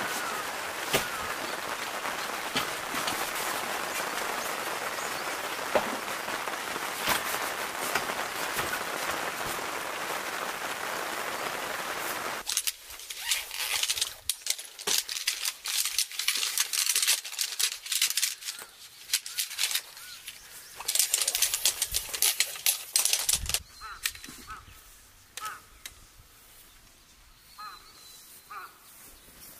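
Steady rain falling for the first twelve seconds or so. It cuts to quick clicking and rustling as camping gear is unpacked and a black metal hanger rack is set up. Near the end it goes quiet, with a few faint bird calls.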